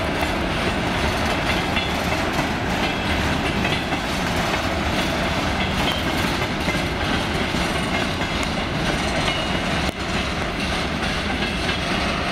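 Freight train wagons rolling past: a steady noise of steel wheels running on the rails.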